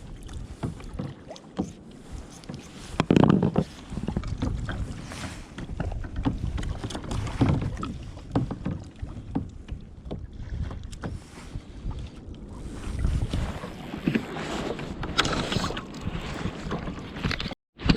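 Water sloshing and splashing around a fishing kayak, with irregular knocks against the hull and wind on the microphone.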